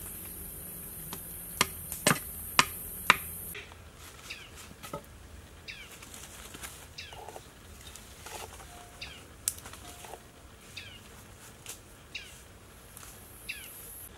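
A steady high hiss, with four sharp knocks about half a second apart in the first few seconds. Then the hiss stops and a bird repeats a short falling chirp about once a second, over scattered small clicks from sticks being handled.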